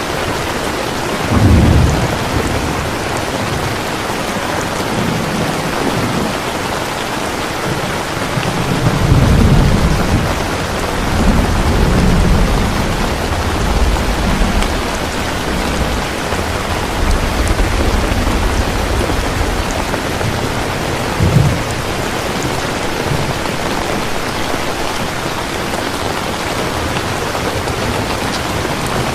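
Steady rain falling, with thunder: a short rumble about a second and a half in, a longer rolling rumble a third of the way through, and a brief sharp clap about two-thirds of the way through.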